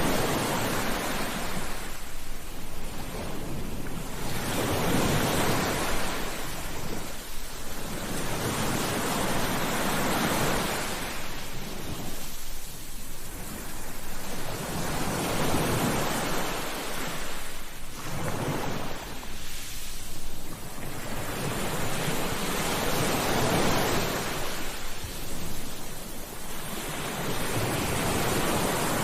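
Ocean waves breaking on a beach: the surf rushes in and washes back in a steady cycle, swelling about every four to five seconds.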